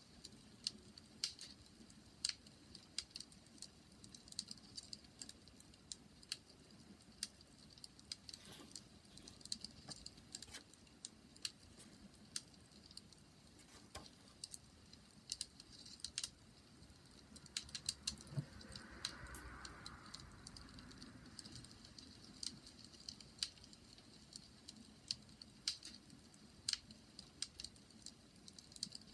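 Wood fire crackling: irregular sharp pops and snaps over a soft steady hiss, with a brief soft rushing swell about two-thirds of the way through.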